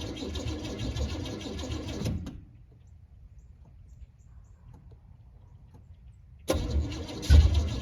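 1978 Chevrolet El Camino's V8 running unevenly, just after a cold start with no choke. The engine sound drops away about two seconds in, leaving a few seconds of low-level sound, then comes back suddenly with a loud burst near the end.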